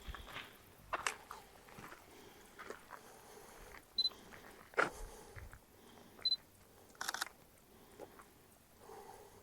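Irregular crunching and clicking handling noises, a few seconds apart, with two short high beeps about four and six seconds in.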